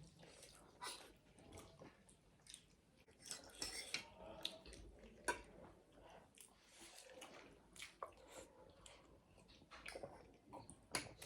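Faint chewing and eating sounds, with scattered small clicks and smacks.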